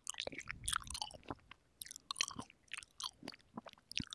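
Wet chewing and biting of juicy cherries: a quick, irregular run of smacks, squelches and clicks.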